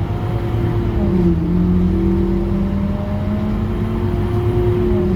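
Scania K230UB city bus's engine and drivetrain running under way with a steady whine over a low rumble. The pitch drops briefly about a second in and again near the end, then holds steady.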